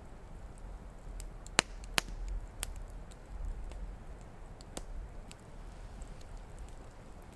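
Wood campfire crackling, with irregular sharp pops; the two loudest come about one and a half and two seconds in.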